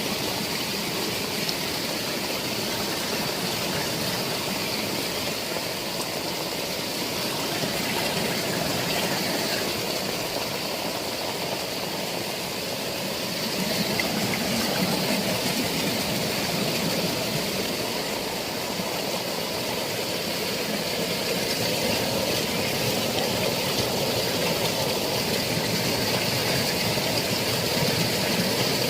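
Heavy rain falling steadily, a dense, even hiss that swells a little now and then.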